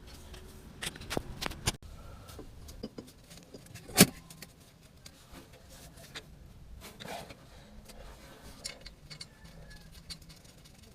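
Metal hand tools and fasteners clinking and knocking against engine parts during work on the turbo and exhaust manifold: scattered light clicks, a few in quick succession in the first two seconds, and one sharp, loud clink about four seconds in.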